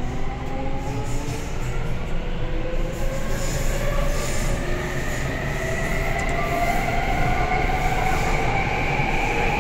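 Taipei Metro Bannan line train accelerating: the traction motors' whine, several tones together, rises steadily in pitch and levels off near the end, over a steady rumble of wheels on rail.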